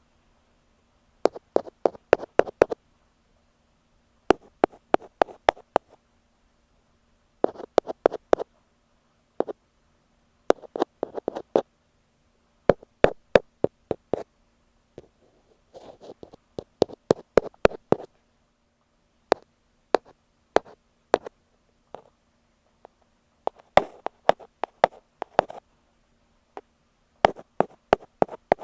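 Ear pick tapping on an earphone microphone: bursts of rapid, sharp taps lasting a second or two each, separated by short pauses.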